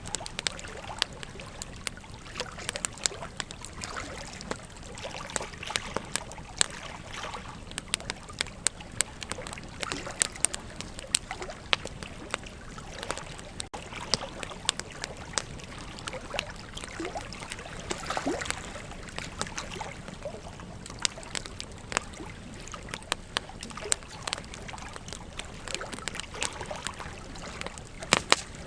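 Wood fire crackling, with frequent sharp, irregular pops over the steady rush of a flowing river.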